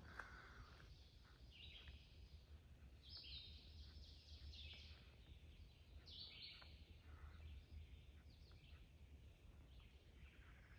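Faint birdsong: a songbird singing short phrases, one every second or so, over a low steady rumble.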